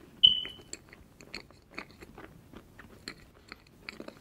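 Close-miked chewing of a soft layered crêpe cake: a steady run of small clicky mouth sounds and smacks. About a quarter second in comes a single sharp clink with a brief ring, the loudest sound.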